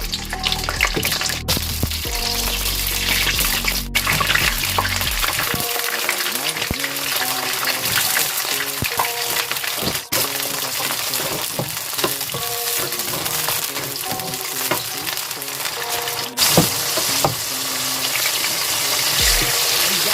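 Food sizzling as it fries in hot oil in a pan and is stirred, with background music playing over it. The sound breaks off abruptly for an instant a few times.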